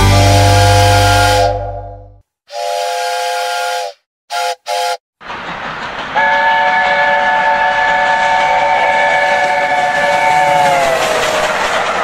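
Steam locomotive chime whistle sounding a chord of several tones: a held blast that fades out about two seconds in, a shorter blast and two quick toots, then the LNER A4 "Bittern" whistle sounding one long blast of about five seconds over the train's running noise, its pitch sagging as it dies away.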